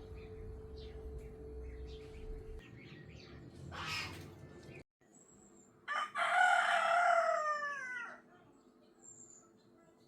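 A rooster crowing once, about six seconds in, for about two seconds, the call falling in pitch at the end. Faint small bird chirps come before it.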